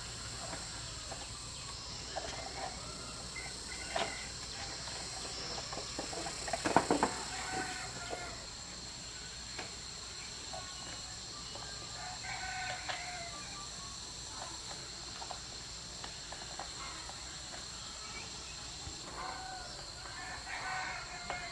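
Chickens clucking, with one louder call, likely a rooster, about seven seconds in and a few softer clucks later, over a steady high-pitched drone of insects.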